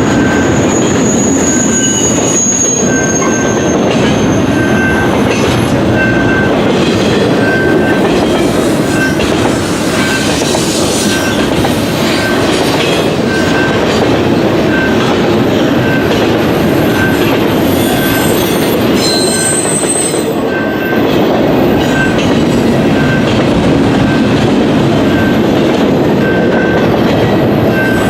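Long freight train of intermodal cars rolling past at speed: a steady, loud rumble of wheels on rail with clicks over the rail joints and faint high wheel squeals. A short high tone repeats about once a second throughout.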